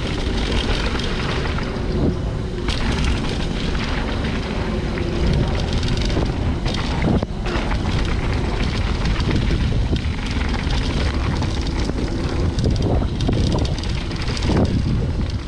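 Wind buffeting a body-worn camera's microphone during a fast downhill run, a steady low rumble broken by scattered knocks and rattles.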